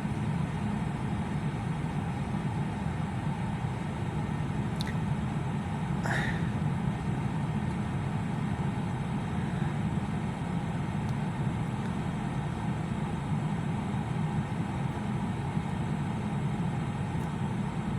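Steady rumble of a long CN freight train's cars rolling past.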